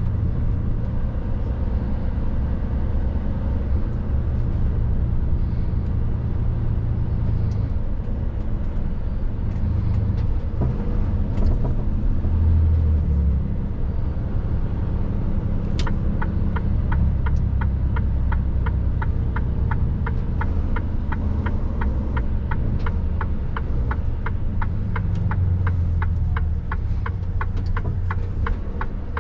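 Mercedes truck's diesel engine running with a steady low rumble while driving. About halfway through, a sharp click is followed by the regular ticking of the turn indicator, about three ticks a second.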